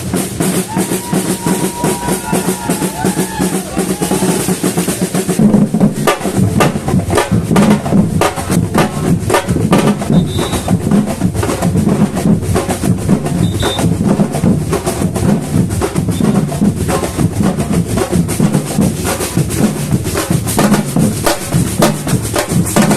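Samba batucada percussion ensemble drumming in a dense, continuous rhythm of bass drums and snares. About five seconds in, the high shaker-like hiss drops out and the strokes turn sharper and louder.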